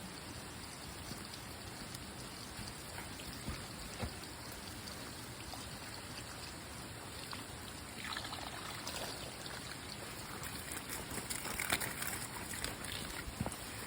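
Steady hiss of water, with a few faint clicks; from about eight seconds in it grows louder and more uneven.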